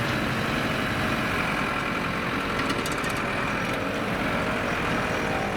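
Banger racing cars' engines running in a steady mix, with no sharp revving or crashes.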